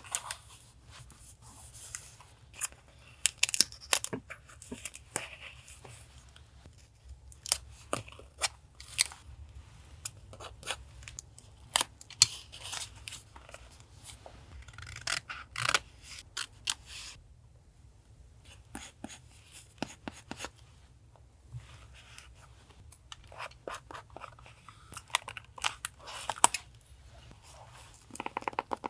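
Paper being handled for collage journaling: tearing, crinkling and scissor snips come as irregular sharp clicks and short rustles with brief pauses. A faint steady low hum runs underneath.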